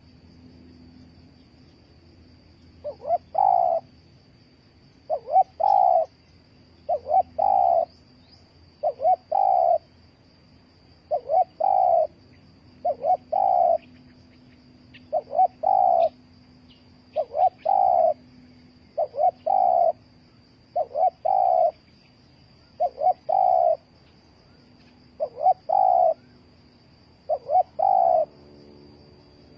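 Spotted dove cooing over and over. Each call is a short note followed by a longer rolling coo, repeated roughly every two seconds, starting about three seconds in.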